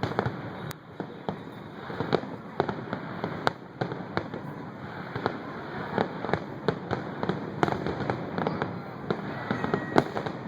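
Fireworks display: a dense, irregular run of sharp bangs and pops, sometimes several a second, over a constant rumble of distant bursts.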